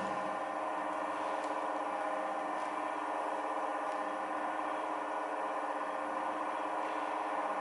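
ZOTECH OWP 7 edgebander running steadily: a continuous motor hum made of several steady tones, with a few faint ticks.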